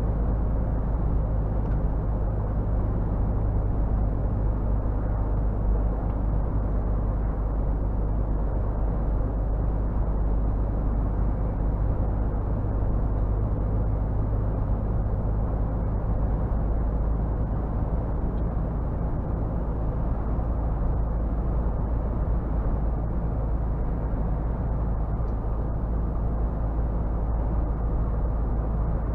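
Scania R450 truck's inline-six diesel running steadily on the move: a constant low hum with road noise and no changes in pace.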